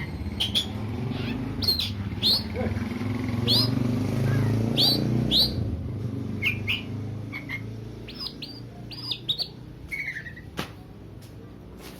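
Oriental magpie-robin (kacer) in breeding condition giving short, sharp chirping calls, repeated irregularly, the excited calls used to provoke other males to fight. A low rumble swells under them in the middle.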